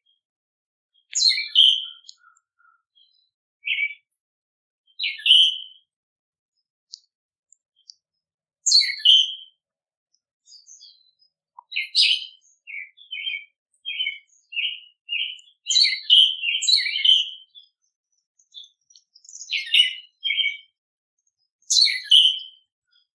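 Small songbirds chirping in short bursts of high notes with quiet gaps between, and a run of quick repeated chirps midway through.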